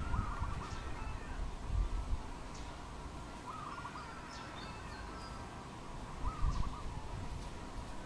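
Wild bird calls: a short warbled phrase repeated three times, about three seconds apart, with a few faint high chirps in between. Under them runs a low rumbling noise that swells twice.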